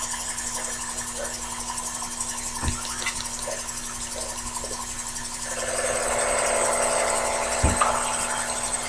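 Sherline lathe running steadily, turning work between centers. About halfway through, a louder, rougher sound joins the motor as the tool starts cutting metal, with a couple of soft knocks.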